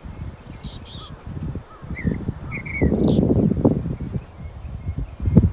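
Small songbirds singing: three short, high, falling trills with a few softer chirps between them. Under the song runs a loud low rumbling noise on the microphone, strongest about three seconds in and again near the end.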